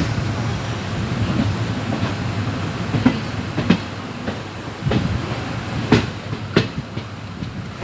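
Indian Railways express train running, heard from the train itself: a steady rumble of the wheels on the rails, with sharp clacks as the wheels strike rail joints about every half second to second, most in the second half.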